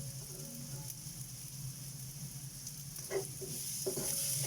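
Oil sizzling steadily in a frying pan, with two short knocks about three and four seconds in.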